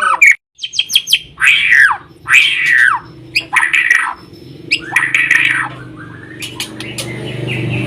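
White-rumped shama (murai batu) singing: a few quick clicks, then four loud, harsh, downward-sweeping notes about a second apart, followed by softer sharp ticks. A low hum grows louder near the end.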